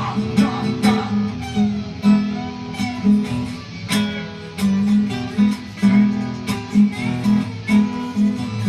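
Instrumental break in a song: acoustic guitar strumming a steady rhythm.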